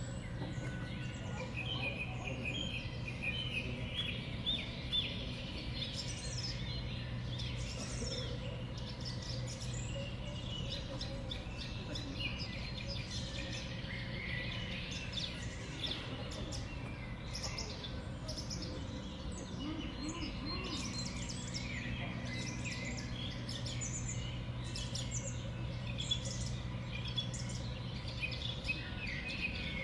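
Small songbirds at a winter seed feeder calling and chirping, many short high calls overlapping throughout, over a steady low hum.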